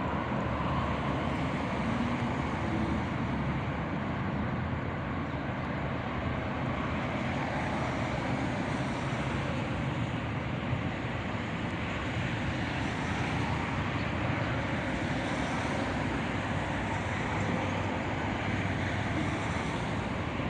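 Steady outdoor traffic rumble, an even noise with no distinct events.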